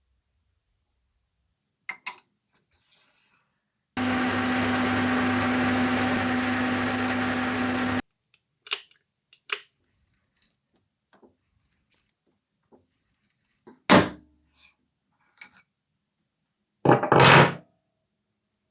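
A workshop power tool runs steadily with a constant motor hum for about four seconds, starting and stopping abruptly, among scattered sharp metal clicks and knocks; a louder knock comes near the middle and another near the end.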